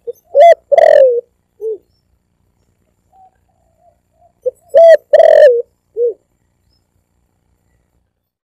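Spotted dove (tekukur) cooing loudly, played as a lure call: two phrases about four seconds apart, each a couple of short coos, a longer drawn-out coo, and a short trailing note.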